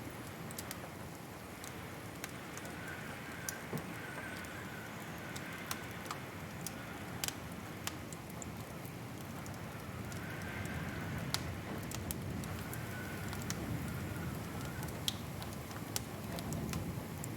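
Wood fire burning in a fireplace: a steady low rush with irregular sharp crackles and pops scattered throughout. A faint wavering whistle rises and fades now and then.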